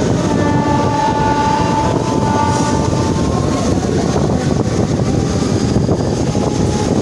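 Mumbai suburban electric local train running, heard from its open doorway: a loud, steady rumble and rattle of wheels on track, with a steady high whine of several pitches over roughly the first three seconds.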